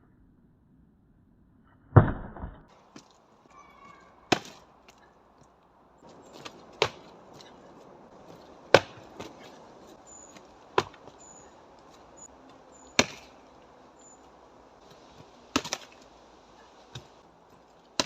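Karate strikes landing on a dry, dead tree trunk: sharp wooden knocks about every two seconds, about eight in all. The first, about two seconds in, is the loudest and has a deeper thud.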